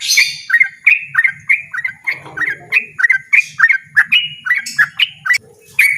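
A yellow-vented bulbul (trucukan) sings a loud, insistent run of short, sharp notes, about three a second, with a brief pause near the end.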